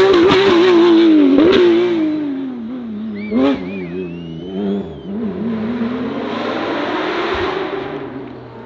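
Race car engine running at high revs, its pitch wavering through gear changes before it drops and fades as the car moves away; a brief sharp high squeal-like sound about three and a half seconds in, then the engine note swells again and fades near the end.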